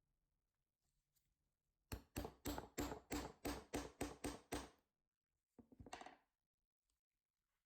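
A quick run of about eleven evenly spaced taps, roughly four a second, followed about a second later by a short, softer burst of the same kind.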